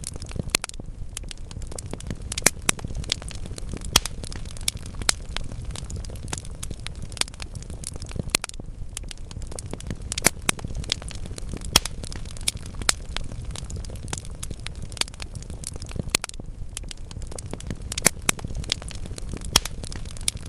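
Wood logs burning in a fireplace, crackling with frequent sharp, irregular pops over a steady low rumble of the flames.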